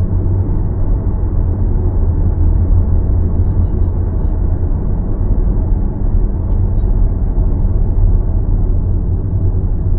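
A car being driven: a steady low rumble of road and tyre noise, with a faint click about six and a half seconds in.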